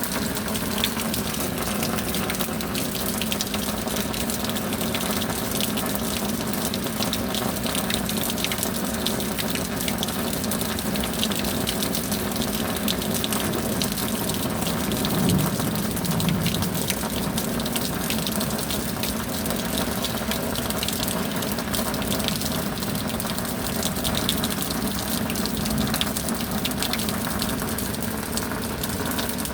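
Steady rain: a continuous rush of falling water with many small drop impacts, swelling slightly about halfway through.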